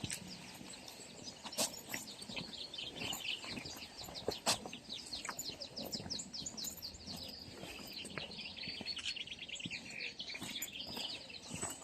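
Songbirds singing in long runs of quick, short high chirps, over the crunch of footsteps, with two sharp knocks about one and a half and four and a half seconds in.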